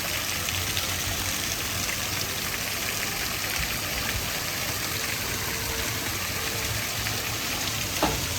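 Steady heavy rain falling, an even hiss of water. A brief knock near the end.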